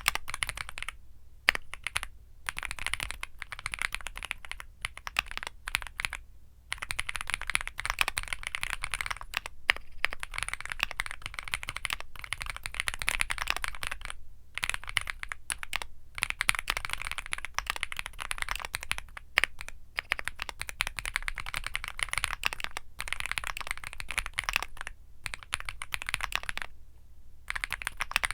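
Fast, continuous typing on a Womier SK75 mechanical keyboard with Womier Mint Blizzard switches: a dense stream of key clacks, broken several times by short pauses of under a second.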